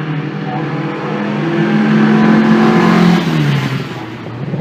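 Classic racing car's engine running under power as the car drives past: it grows louder to a peak about three seconds in, then its pitch drops and it fades as it moves away.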